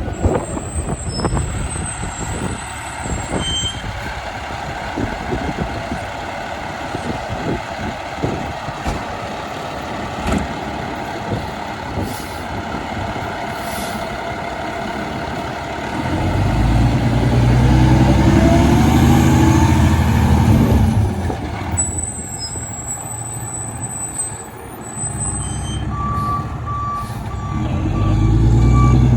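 Steady city street noise, then a fire truck's diesel engine grows loud with a rising pitch for several seconds as it pulls out. Near the end a reversing beeper starts pulsing as a fire truck begins backing up, its engine rising again.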